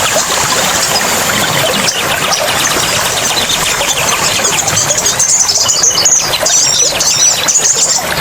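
Running water with small birds chirping and twittering over it; a quick, high twittering grows busier in the second half.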